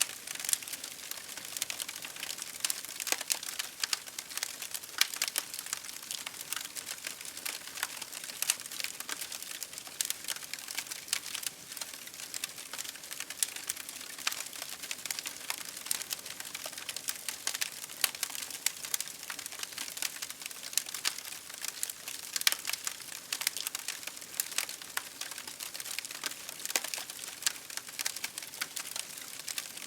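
Campfire crackling: a steady hiss of burning wood with dense, irregular sharp pops and snaps.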